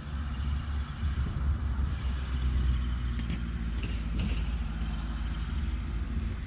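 Kubota M125X tractor's diesel engine running steadily while working a baler, with a few light clicks a little past halfway.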